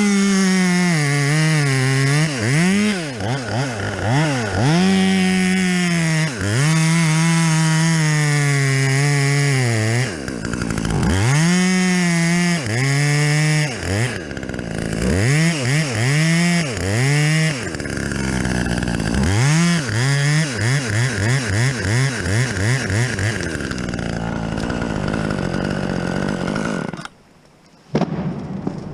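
Two-stroke chainsaw working at full throttle, its engine note held high and then released and revved back up many times over, with a run of quick throttle blips in the middle. It stops abruptly near the end, followed by one brief burst.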